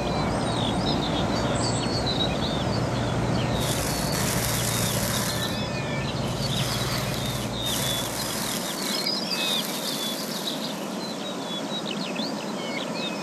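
Many small birds singing, a dense run of short, high chirps and trills, over a steady low rumble that drops away about nine seconds in.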